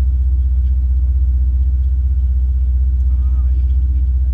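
Ferrari 488 GTB's twin-turbo V8 and road noise making a steady low drone as the car drives along at an even pace.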